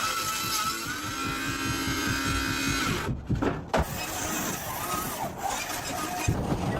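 Chainsaw engine running steadily, its pitch rising slightly about a second in. About three seconds in the sound breaks off and changes to a noisier, irregular work sound.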